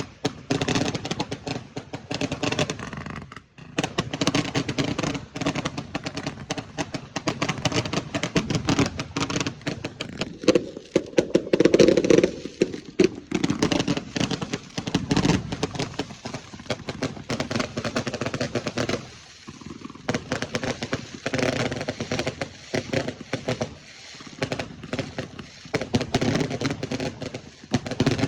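Fireworks going off in a dense barrage of rapid cracks and bangs, with a heavier, louder burst about eleven to twelve seconds in.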